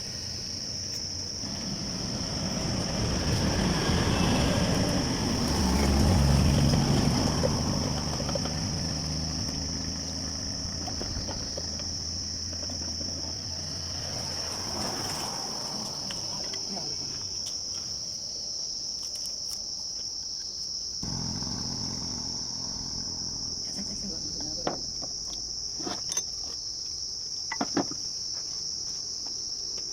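Steady high-pitched chirring of insects throughout. A low rumble swells and fades over the first ten seconds, and a few sharp clicks come near the end.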